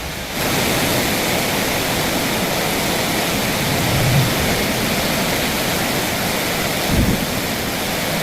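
Heavy rain pouring down in a steady, loud rush, with two brief low thumps about four and seven seconds in.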